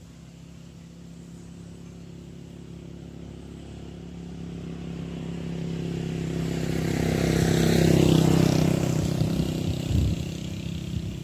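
A motor vehicle's engine approaching and passing, growing steadily louder to a peak about eight seconds in, then easing off a little.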